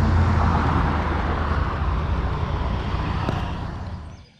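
Scion xB driving on the road, heard from inside the car: a steady low engine hum with road and tyre noise. It fades out near the end.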